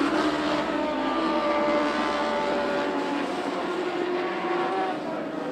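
Several sprint car engines running together in an overlapping drone, the pitch easing gently downward as the sound slowly fades.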